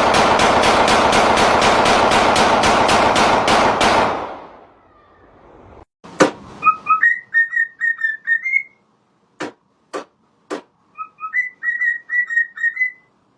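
Rapid automatic gunfire, a fast unbroken string of shots that stops about four seconds in. Then come a few sharp clicks and two short runs of whistling, quick notes stepping up and down.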